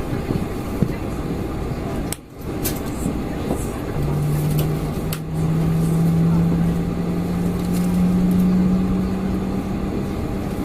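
Boeing 747-400 cabin noise: a steady rush, with a hum that starts about four seconds in and slowly rises in pitch.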